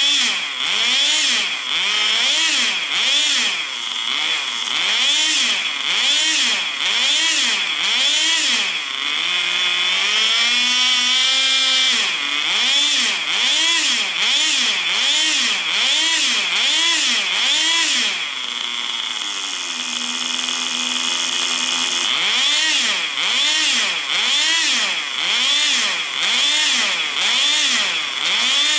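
Tamiya TGS 1/10 nitro RC car's small two-stroke glow engine running, its pitch swinging up and down about once a second as the car is driven. About a third of the way in it holds a higher, climbing pitch for a few seconds. Past the middle it settles to a steadier, lower note for a few seconds. The owner considers the engine well tuned.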